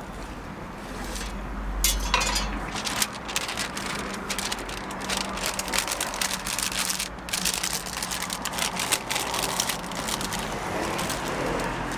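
Food sizzling on a flat street-stall griddle, a dense crackle, with metal spatula clinks and scrapes; a sharper clack about two seconds in.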